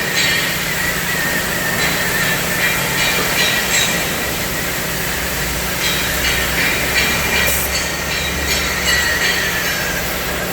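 CNC cutting machine for steel plate running: a steady loud hiss with a wavering high-pitched whine and a low hum underneath.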